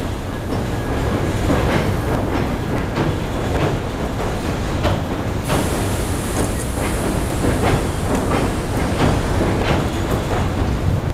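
Tobu Skytree Line train crossing a steel truss railway bridge: a steady rumble with repeated clacks of the wheels over rail joints.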